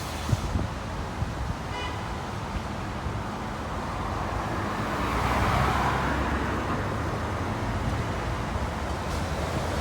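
Road traffic going by: a steady engine rumble and tyre noise, with one vehicle passing louder about five seconds in.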